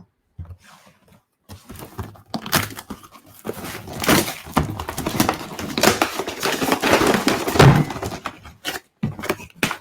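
Cardboard box and its packaging being opened and pulled apart: continuous rustling, crackling and tearing with scattered knocks, and one heavier thunk near the end.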